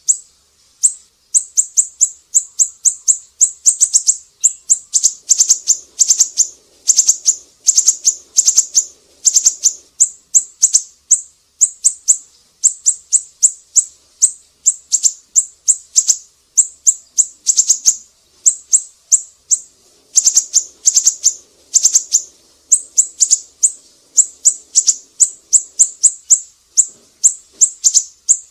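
A siri-siri songbird singing vigorously as a masteran tutor song for training other songbirds. It repeats short, sharp, high chirps in quick runs of about two or three a second.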